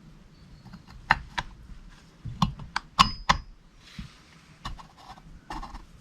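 Sharp clicks and light knocks of small hard parts and tools being handled, about eight in irregular succession; one about three seconds in rings briefly like a small piece of metal.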